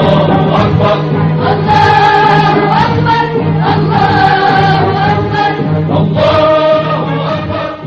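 A choir singing a patriotic song in long held notes over steady instrumental accompaniment.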